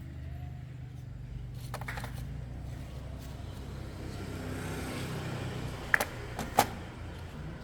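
Small motorcycle engine, a 2004 SYM, idling steadily. A few faint clicks sound about two seconds in, and two sharp, louder clicks come late on, about half a second apart.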